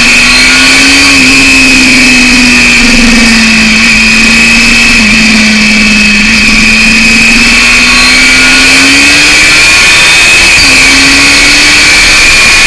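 Yamaha FZR 600's inline-four with a BOS aftermarket exhaust, ridden at high revs. Its pitch rises and falls with the throttle and drops suddenly a few times, about 5 s in, near 11 s and near the end, as it changes gear.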